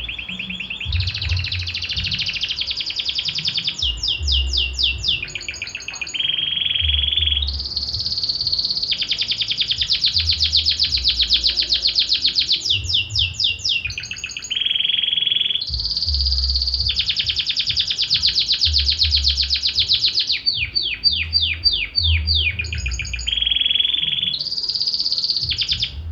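A Belgian canary singing a long, continuous song of rolls and trills, switching between held buzzy trills and runs of fast sweeping notes with hardly a pause.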